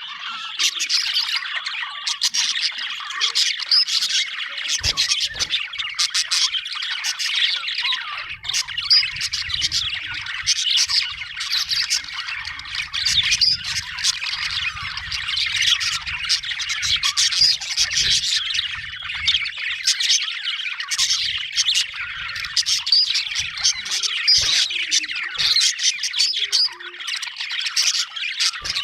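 Budgerigars chattering and warbling continuously, many short chirps and squawks overlapping at once.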